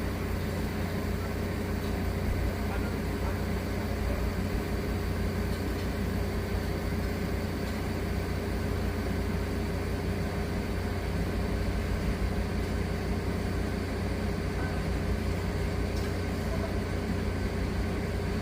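Diesel engine of a Manitou MRT3570 rotating telehandler running steadily, with a deep, even drone and no change in speed.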